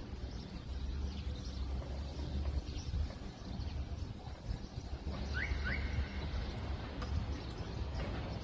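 Outdoor ambience with a steady low rumble, and two short rising bird chirps in quick succession a little past halfway.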